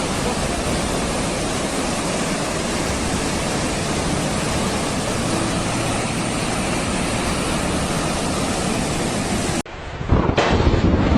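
Steady, unbroken rush of water. About ten seconds in it cuts off abruptly to gusty wind buffeting a microphone.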